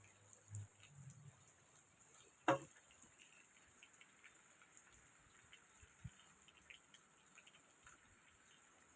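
Scattered water drops dripping and ticking during a rainstorm, faint, with one sharp knock about two and a half seconds in.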